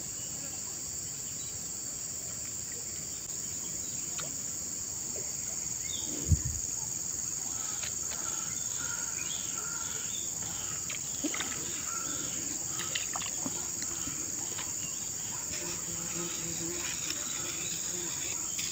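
A steady, high-pitched chorus of insects runs throughout. A single dull thump comes about six seconds in, with a few faint small ticks after it.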